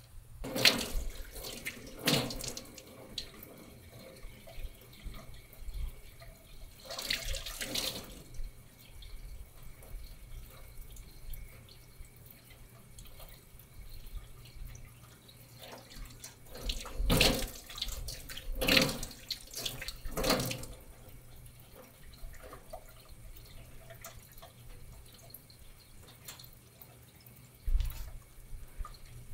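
Water running from a tap in several short spells, with small drips and ticks between them.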